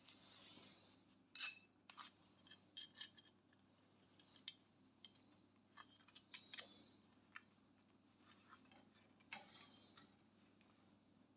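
Faint handling sounds: scattered light clicks and small knocks, the loudest about a second and a half in, over a low hiss.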